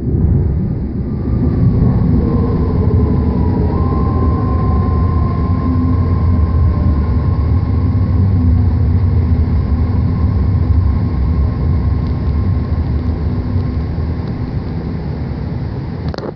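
BART train running on the rails, heard from inside the car: a steady low rumble with a thin whistling tone that slides down in pitch about three seconds in, holds, then fades. The rumble eases off toward the end as the train pulls into a station.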